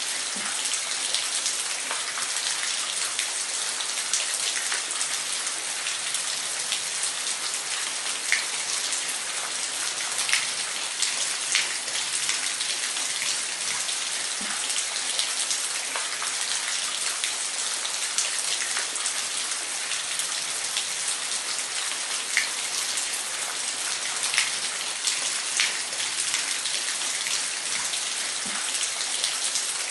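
Waterfall: a steady, even rush of falling and splashing water, scattered with small drip-like ticks.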